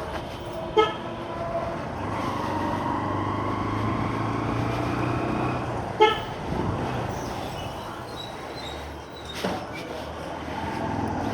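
Two short vehicle horn toots, about five seconds apart, over the steady running noise of a motorcycle on the road.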